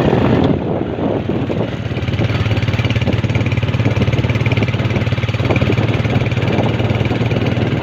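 Small motorcycle engine running steadily with a rapid even putter as the bike is ridden.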